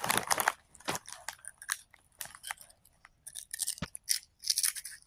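Close-up crunchy chewing of Funyuns onion-flavored rings: irregular crisp crunches with short pauses between bites.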